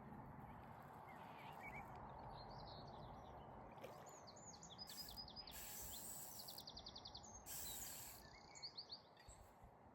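Small songbirds chirping and trilling, including a fast run of repeated notes in the middle, over a faint steady outdoor rumble, with a few short bursts of hiss.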